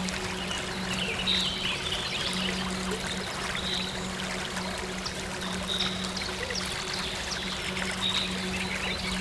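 Stream water running and trickling steadily, with short high bird chirps every second or two and a soft, steady low synth drone underneath.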